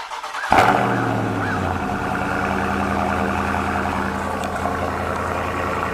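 Dodge Charger Scat Pack's 6.4-litre HEMI V8 starting about half a second in with a loud flare. About a second later it settles into a steady idle.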